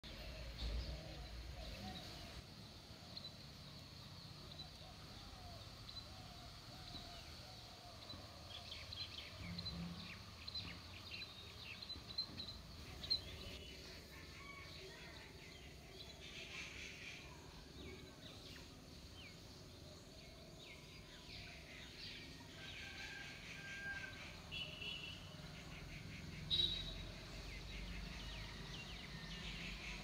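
Small birds chirping: quick, short, high calls that come and go in flurries over a steady low background noise.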